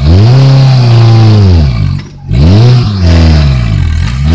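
Modified Suzuki Jimny's engine revved hard under load while crawling over a steep dirt mound, in several surges that rise and fall in pitch, easing off briefly about two seconds in and again near the end.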